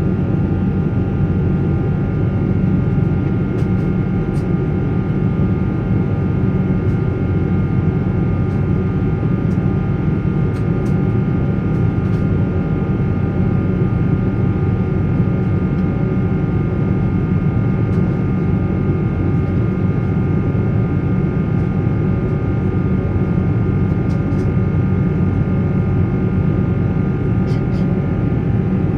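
Rolls-Royce Trent 800 turbofan engines of a Boeing 777-300 heard inside the passenger cabin: a steady, loud low rumble with several steady tones running over it. A few faint clicks are scattered through it.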